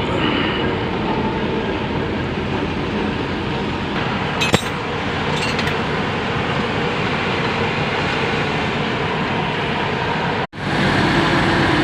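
Heavy machine's engine running steadily, with a sharp metallic clink about four and a half seconds in and a lighter one a second later. Near the end the sound cuts out for an instant and comes back louder.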